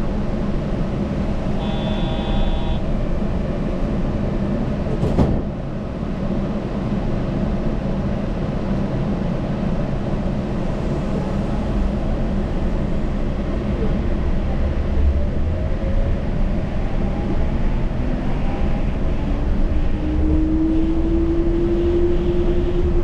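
Yurikamome rubber-tyred automated train running, heard from the front of the car as a steady low rumble. A brief electronic tone sounds about two seconds in and a sharp click about five seconds in, and a faint whine rises slowly over the last few seconds.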